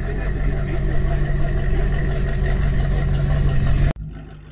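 Rusty hot rod's engine running steadily with an even low drone as the car drives slowly up close. Near the end the sound cuts out abruptly, and an engine comes back in quietly and grows louder.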